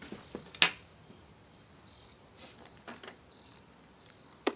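Crickets chirping steadily in the background, with two sharp clicks, the louder one just over half a second in and another near the end.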